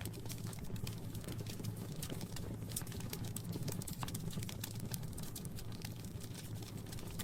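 Wood fire in a fireplace crackling: many irregular small pops and snaps over a steady low background.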